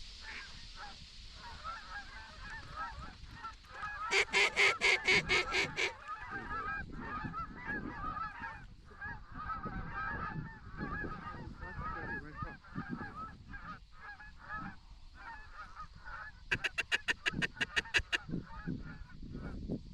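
A large flock of waterfowl calling continuously, a dense chatter of many birds. Twice, about four seconds in and again near the end, a loud run of eight or nine rapid, evenly spaced quacks stands out over the flock.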